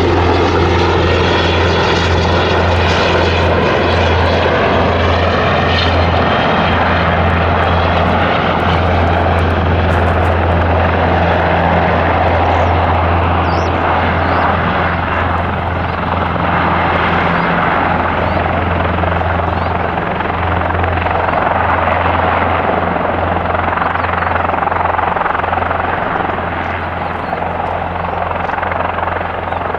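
Airbus H225M Caracal helicopter flying: steady rotor beat under a turbine whine that falls in pitch over the first few seconds, easing off slightly near the end.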